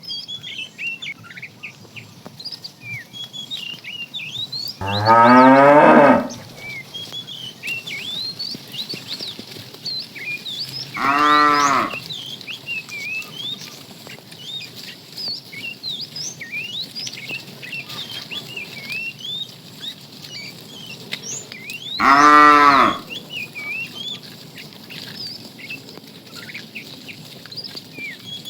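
Cattle mooing: three loud moos spaced several seconds apart. The first, about five seconds in, is the longest and rises in pitch; the other two are shorter. Small high chirps run underneath throughout.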